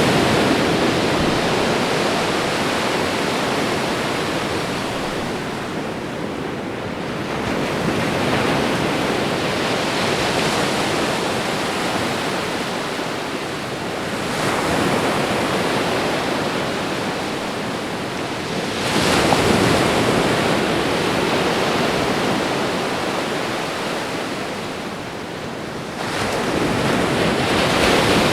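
Ocean waves washing onto a shore, one after another: each surge builds and breaks into a rush of foam, then fades, about every five to seven seconds.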